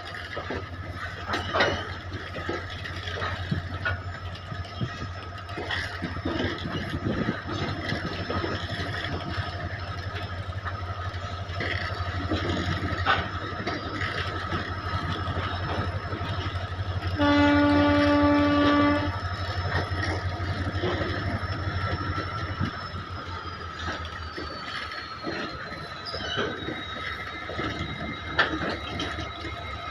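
Indian Railways goods train running past, its wagons rumbling and wheels clattering over the rail joints. About 17 seconds in, a locomotive horn sounds once for nearly two seconds.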